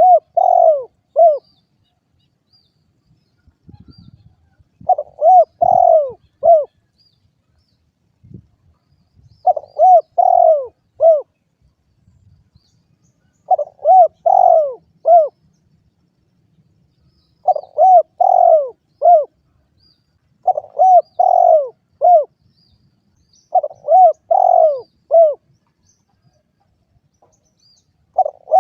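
Derkuku dove cooing in short phrases of three or four rounded notes, the phrase repeated about every three to four seconds. Faint high chirps sound in the background.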